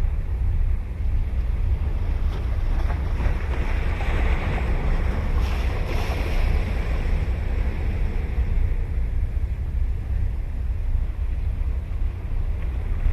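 Ocean surf breaking and washing up the beach, one wave swelling about three seconds in and fading after about seven. Wind rumbles steadily on the microphone throughout.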